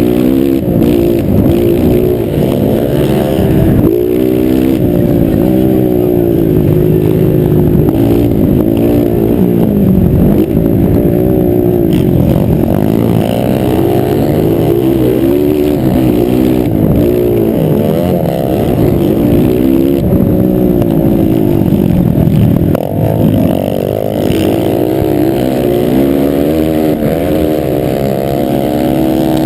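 Several motocross bikes racing at once, their engines revving up and falling back over and over as they accelerate and shift, the pitches overlapping.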